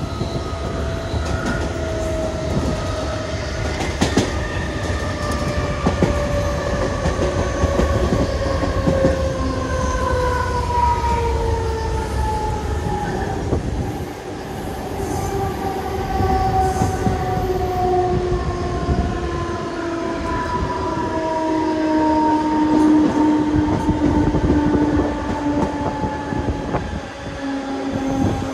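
Mumbai suburban electric local train running, heard from the open doorway: a steady rumble of wheels on the track with occasional clicks, and a motor whine in several tones that falls slowly in pitch.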